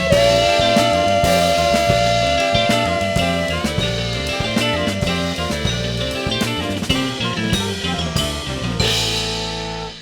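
Live rock band playing the instrumental close of a song, with drums and guitar, a long held note over the first few seconds that bends upward, and the music stopping abruptly at the end.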